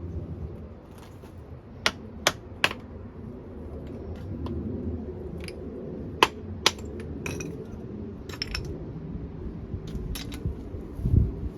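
A metal hand tool clinking and scraping against hard material while digging out around a drain pipe: three sharp clinks about two seconds in, two more about six seconds in, then scraping, and a dull thump near the end.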